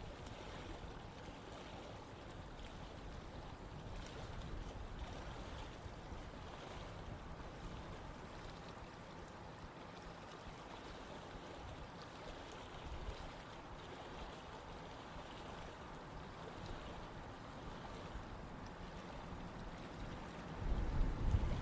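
Stream water running steadily with an even rush. Near the end a low rumble of wind buffeting the microphone comes in over it.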